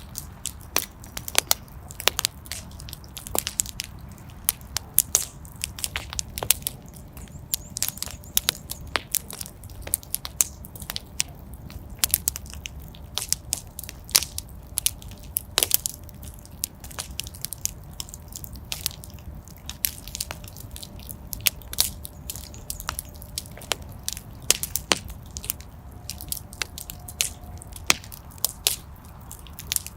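Wood fire in a fireplace crackling: irregular sharp pops and snaps over a low, steady rumble of the flames, with a faint hiss whistling from the burning wood now and then.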